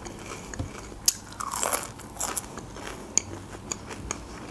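Crunchy french fries being bitten and chewed: a run of crisp crunches with a few sharp crackles, the loudest about a second in and again about three seconds in.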